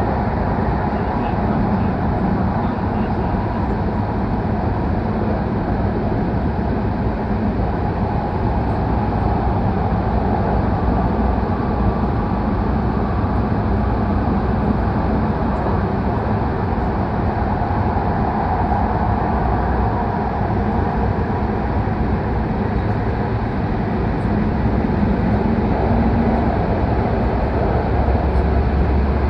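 Steady, loud running noise of a Shinkansen train travelling through the Seikan Tunnel, heard from inside a passenger car. The low end grows a little stronger near the end.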